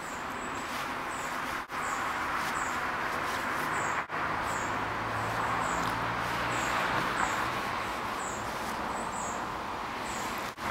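Outdoor background hiss with a small bird's very high, thin chirp repeating a little more than once a second; the sound cuts out briefly a few times.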